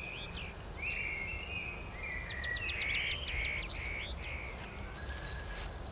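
Birds chirping and whistling, many short notes rising and falling in pitch, over a low steady rumble.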